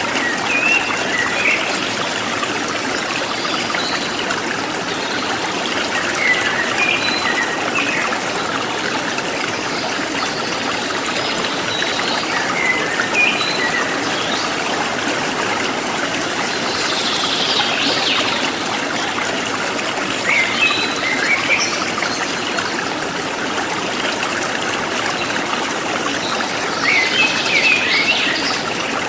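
A forest stream running and trickling steadily, with small birds chirping in short phrases every few seconds.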